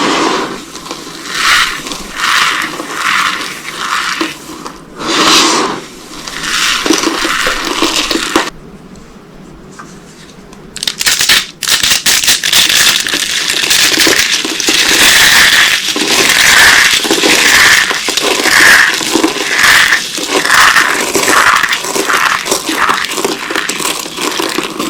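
Dry soap cubes coated in corn starch crunching and crackling as they are cut and crushed. First comes a series of separate crunches about a second apart, then a short lull, then dense, continuous crunching with a steady pulse of about two a second.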